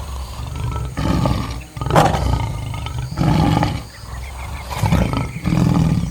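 Lion roaring: a run of about five short, heavy calls in quick succession, each lasting under a second.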